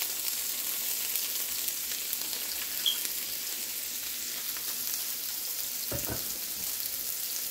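Chopped onion, celery and garlic sizzling steadily in hot olive oil in a frying pan, just added to sauté.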